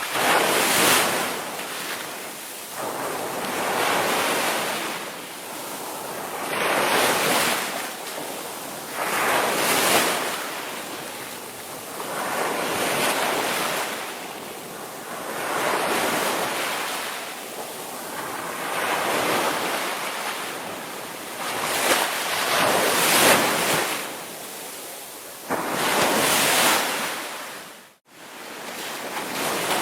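Ocean surf breaking and washing in, swelling and fading about every two to three seconds. The sound drops out abruptly for a moment near the end.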